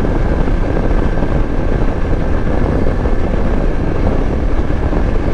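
A Yezdi Adventure's 334 cc single-cylinder engine running steadily as the motorcycle cruises at highway speed, with wind rush on the microphone. The noise stays at an even level throughout.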